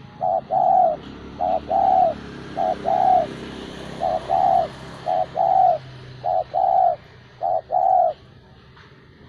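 Spotted dove (tekukur) cooing in a steady series of two-part phrases, a short coo followed by a longer one, repeated about once a second and stopping about eight seconds in.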